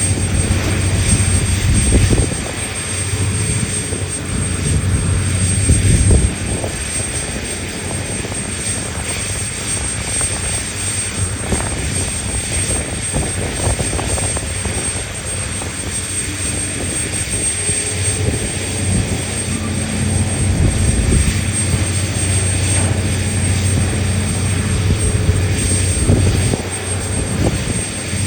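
Large diesel engines of a hydraulic mining excavator and haul trucks running steadily with a low hum, the engine note swelling louder a few times, around two and six seconds in and again in the last third, as the machines work under load.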